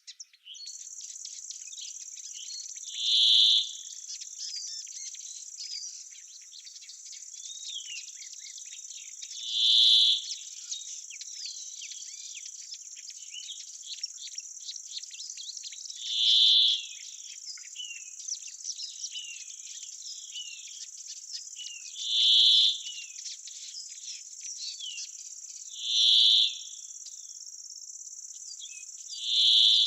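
Summer woodland chorus: a steady high-pitched insect trill with many small bird chirps through it. A louder high call, about a second long, comes back about every six seconds, six times in all.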